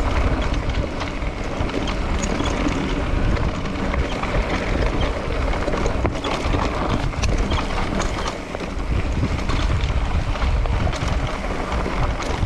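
Wind buffeting the microphone while riding fast down a dirt trail, with scattered clicks and rattles from the ride over rough ground.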